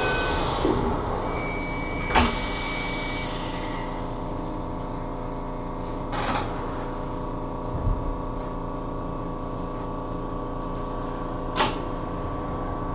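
Electric commuter train of the Aonami Line standing at a platform, heard from the cab: a steady hum of its electrical equipment, with a few sharp clicks about two, six and eleven and a half seconds in and a brief high beep near the start.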